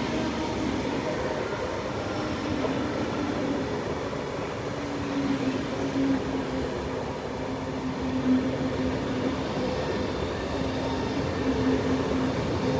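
Electric passenger train passing close by on overhead-wired track: a steady rumbling rush of wheels on rail, with a steady low drone that grows stronger about halfway through.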